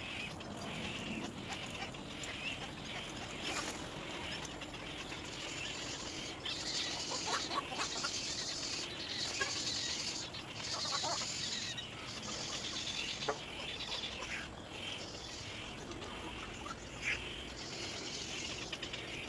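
Little egret chick crying for its parent: repeated raspy, high calls, each lasting about a second.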